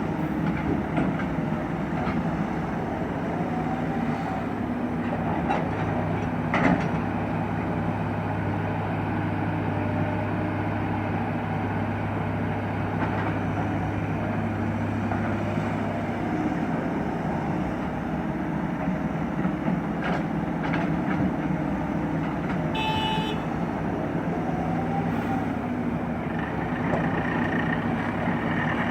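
Excavator's diesel engine running steadily under work, with a few short knocks early on and a brief high beep-like tone about three-quarters of the way through.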